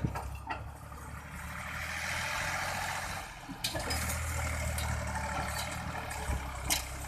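Tractor engine running with a steady low rumble, and a few sharp clicks over it.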